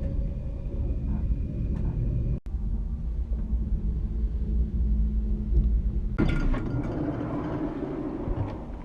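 Passenger train running, a steady low rumble. About six seconds in, after a cut, a brighter, hissier noise takes over.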